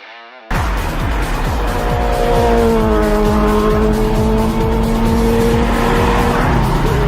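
Loud car sound mixed with music, cutting in abruptly about half a second in: a pitched note that slides slowly down over a pounding rhythmic low end.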